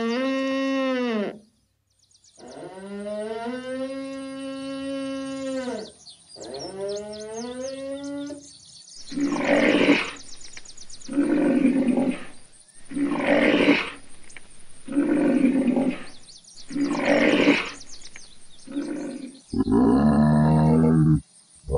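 A series of animal calls. First come three drawn-out pitched calls. Then five rough, loud calls follow about two seconds apart, and a lower call comes near the end.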